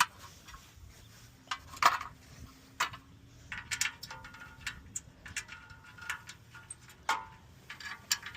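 Scattered clicks and light metallic clinks of car parts and tools being handled. The sharpest comes about two seconds in, and a busier run of clicks follows in the second half.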